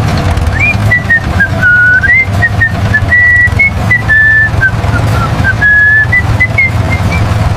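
A whistled melody, a single clear tone stepping up and down in short notes, over a loud, steady low beat: background music.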